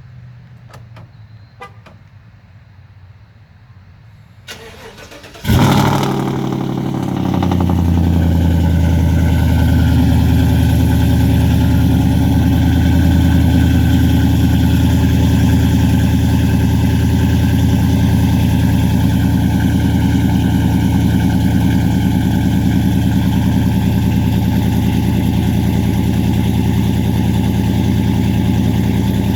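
A GM 5.3-litre V8 truck engine with long-tube headers and a Flowmaster 44 dual exhaust, cold-started after sitting all day. After a few faint clicks, about five and a half seconds in it cranks and fires with a loud flare, then settles within a couple of seconds into a steady fast cold idle.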